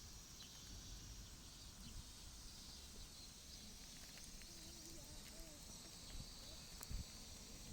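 Faint outdoor ambience: a steady high-pitched drone of insects, with a few faint ticks.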